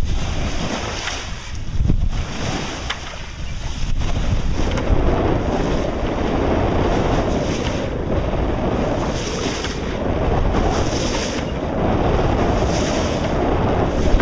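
Wind buffeting the microphone over water rushing along the hull of a Contest 29 sailboat under sail at about four knots. From about four seconds in, the rush of water grows louder and swells and eases every couple of seconds.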